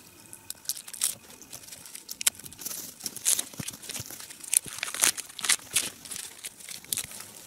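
Dry, loose birch bark being peeled off the trunk by hand and gathered: irregular papery crackles, crinkles and tears.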